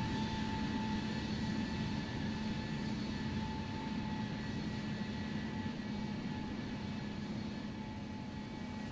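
Airplane engines running, a steady whine over a broad rumble, growing slightly fainter toward the end.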